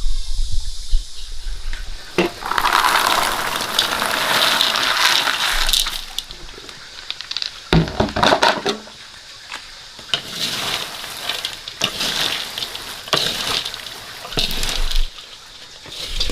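Water pouring and splashing in irregular bursts of a second or more, with short pauses between them.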